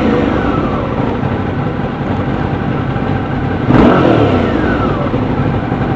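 Suzuki V-Strom 650's V-twin engine under way, its revs falling as it rolls off. About four seconds in there is a brief louder surge, and then the revs fall away again.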